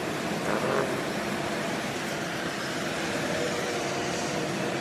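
Steady running noise of car engines, with faint voices in the background.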